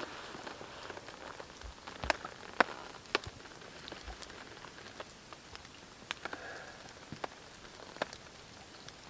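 Rain: large drops landing one at a time as sharp, irregular taps over a faint steady patter.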